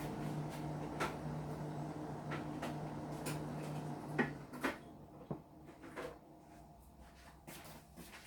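Kitchen handling sounds: scattered light clicks and knocks of containers and utensils being picked up and set down, with a steady low hum that stops about four seconds in.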